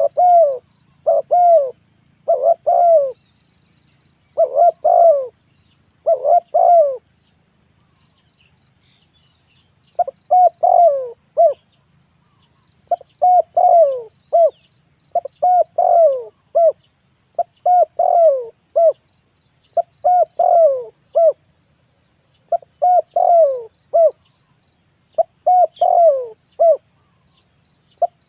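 Spotted dove cooing: short phrases of a few falling coos, repeated every second or two, with a pause of about three seconds partway through.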